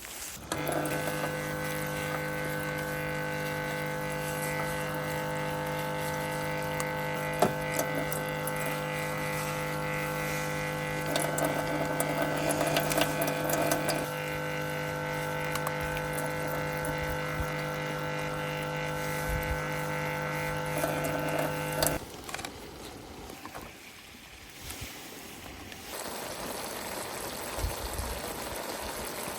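A small electric motor hums steadily at one pitch for about twenty seconds, then cuts off suddenly, leaving a quieter hiss.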